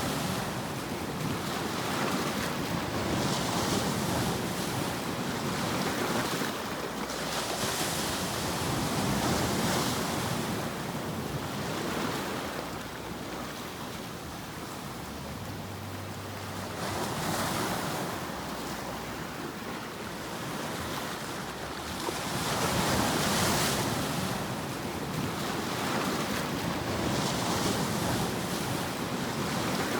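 An even rushing noise that swells and ebbs every few seconds, like waves washing in, with the surges strongest in the high hiss.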